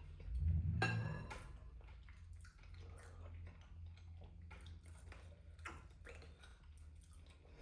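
Faint eating sounds: small wet mouth noises and light clicks of a utensil against a bowl, over a low steady hum. About a second in there is a short vocal sound, a brief gasp or exclamation from the heat of the noodles.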